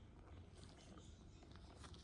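Near silence: faint room hum with a few faint light clicks near the end.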